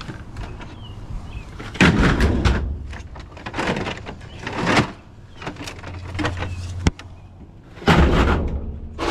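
Doors and cargo being handled on a beverage delivery truck: a series of loud bangs and rattles, the biggest about two seconds in and another about a second before the end.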